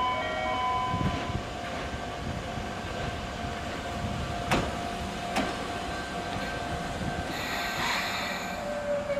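Omi Railway 820 series electric train pulling into a station and stopping. It runs with a steady hum and rumble, gives two sharp clacks of the wheels over a rail joint around the middle, and lets out a hiss near the end as it halts.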